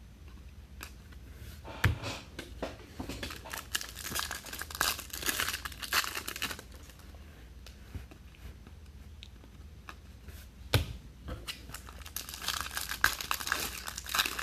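Foil trading-card pack wrapper being torn open and crinkled in two bouts, with a soft knock about two seconds in and another near eleven seconds.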